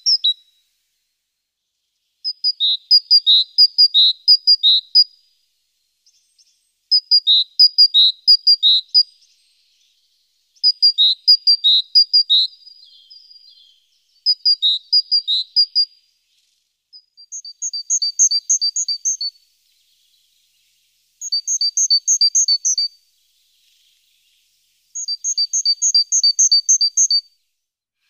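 A songbird singing seven short phrases of rapid, high chirps, one about every four seconds with pauses in between. The later phrases are an evenly paced trill, higher in pitch.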